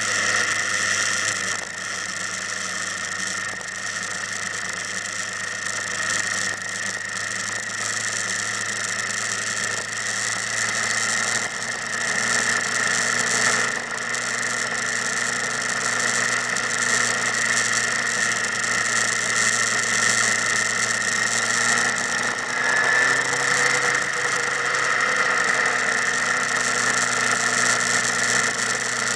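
Motorcycle engine running steadily, with a brief rise and fall in pitch about three-quarters of the way through.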